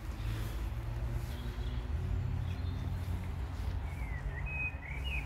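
A steady low outdoor rumble, with a small bird giving a few short chirps near the end.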